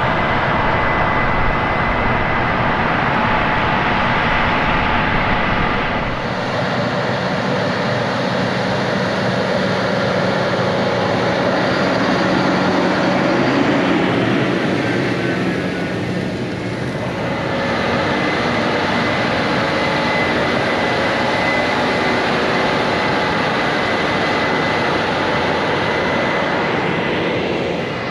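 Heavy harvest machinery running steadily under load, a loud mechanical din with a steady whine in it. The deep bass drops out about six seconds in, and the sound eases briefly twice.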